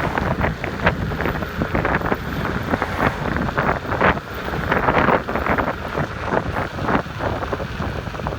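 Wind rushing over the microphone of an electric scooter ridden at about 34 mph, coming in uneven gusts, with road noise underneath.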